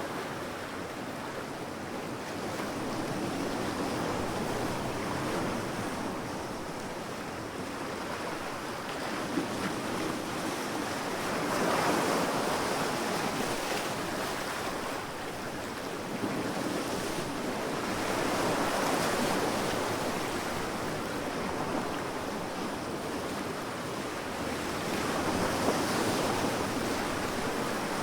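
Sea waves breaking and washing on a beach, the surf swelling and ebbing in surges every six or seven seconds.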